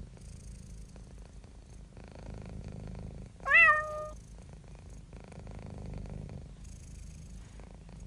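Domestic cat purring steadily, with one loud meow about three and a half seconds in.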